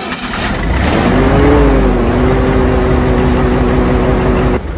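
Lincoln SA-200 welding machine's engine starting up cold, with its muffler still on. It speeds up about a second in and then runs steadily with a steady whine, dropping slightly in level near the end.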